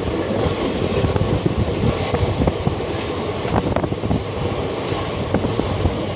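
A moving train: a steady rumble with many scattered short clanks and knocks.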